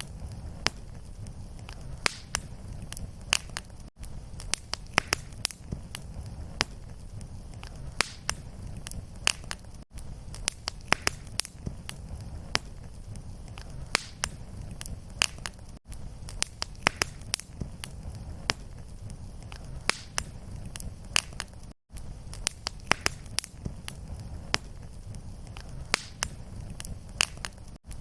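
Wood fire crackling in a fireplace: a steady low rumble of flames with frequent sharp pops and snaps. The sound drops out for an instant about every six seconds where the fire loop restarts.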